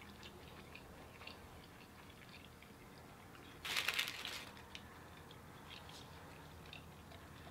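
Faint chewing and mouth sounds of people eating fast-food sandwiches and fries, with one brief, louder crunching noise about three and a half seconds in.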